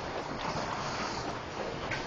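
Heavy hail, stones up to dollar size, pelting down in strong wind: a dense, steady rush of noise with a few faint sharper hits.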